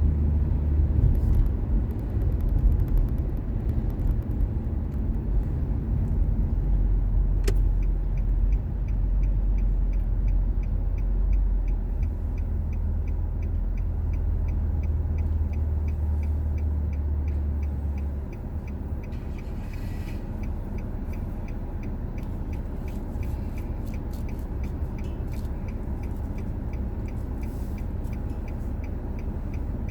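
Car driving, heard from inside: a steady low rumble of engine and road noise that drops noticeably about two-thirds of the way through. From about a quarter of the way in, a faint regular light ticking comes in, about twice a second.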